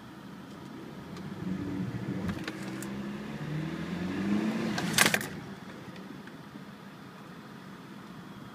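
BMW E46 3 Series diesel engine revved while stationary, the revs climbing unevenly to about 3000 rpm, with a sharp, loud burst of noise about five seconds in as the revs drop back to a steady idle.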